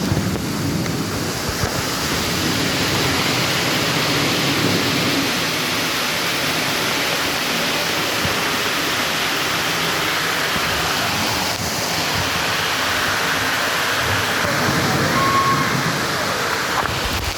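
Steady rushing of flowing water: the hot-spring stream or pool runs on without a break.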